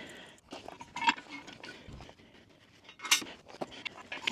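Steel parts of a Category 1 three-point quick hitch and the tractor's lift-arm pins clinking and knocking as they are worked into place: a few scattered metallic clinks, the sharpest about three seconds in.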